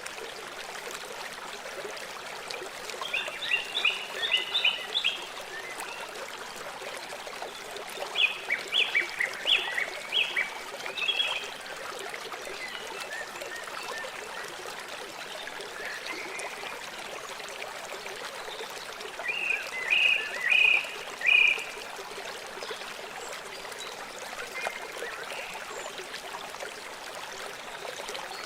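River water flowing steadily, with a bird calling in three bursts of rapid, high chirps that stand out above the water.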